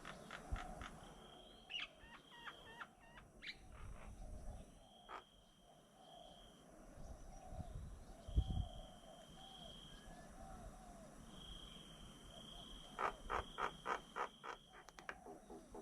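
Birds calling: scattered short chirps, a high steady whistle-like note held for about a second and repeated several times, and a quick run of sharp chattering notes near the end. There is a low thump about halfway through.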